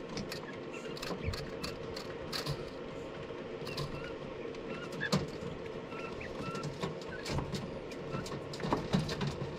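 Faint, quiet cheeping of Phoenix quail chicks, with scattered light clicks and snips over a steady low hum.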